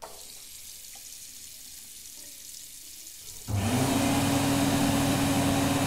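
Water running steadily, then about three and a half seconds in a loud electric hand dryer starts up, its motor hum rising to a steady pitch and running under the rush of air.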